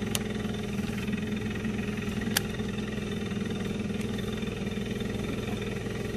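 Fishing boat's engine running steadily, with two sharp clicks, one just after the start and one about two and a half seconds in.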